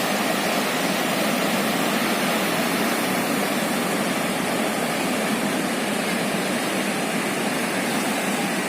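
Steady rushing roar of heavy ocean surf, mixed with strong wind.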